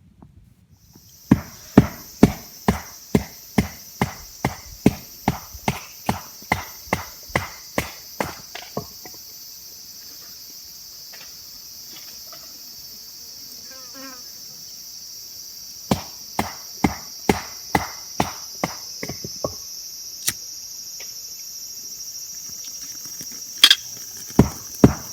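Sharp, evenly paced chopping knocks, about two a second, in three runs, over a steady high-pitched insect chorus.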